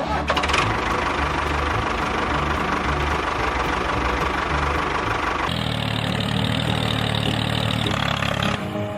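Steady running engine or motor sound of a working machine, which changes abruptly to a different steady running sound about five and a half seconds in.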